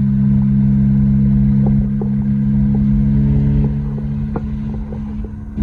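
Car engine and exhaust droning steadily while driving, with a few light ticks over it; the drone eases off a little near the end.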